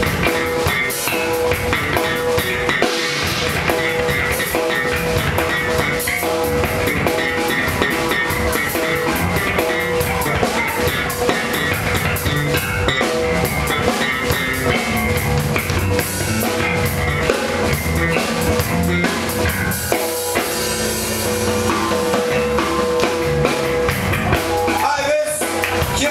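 Funk band playing: drum kit with kick and rimshots, guitar and a long held note over a steady groove.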